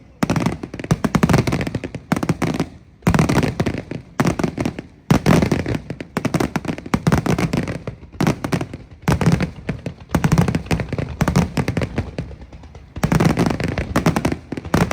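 Fireworks display: volleys of rapid bangs and crackling, bunched in repeated bursts with brief lulls between them and a longer lull near the end.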